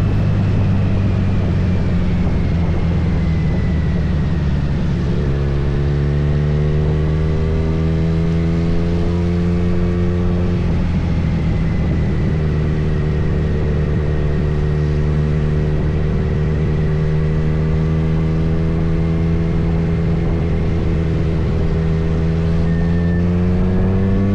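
Kawasaki Z900 inline-four motorcycle engine running while riding. Its note drops abruptly about five seconds in, steps again around eleven seconds, and climbs near the end.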